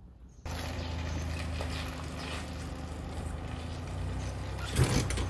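Honda NSR250R's two-stroke V-twin engine running steadily, coming in suddenly about half a second in, with a brief louder moment near the end.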